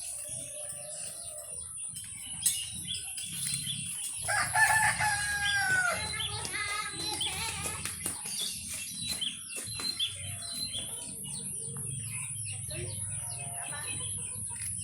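A rooster crows once, about four seconds in: a long call ending in a falling glide. Small birds chirp around it over a steady high-pitched whine.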